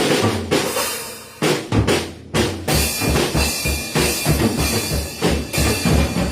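Drum kit played hard: crash hits and a short fill, then from a little under halfway a fast, even bass-drum pattern of about four beats a second under ringing cymbals.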